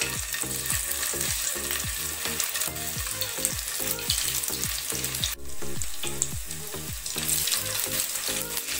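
Stuffed paneer slices sizzling as they are laid one by one into hot refined oil and ghee in a kadai, a steady frying hiss. The hiss dips briefly about five seconds in.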